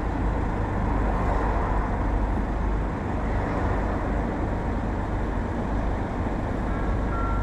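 Steady road and engine noise of a vehicle driving, heard from inside the cab. A faint high steady tone sounds briefly near the end.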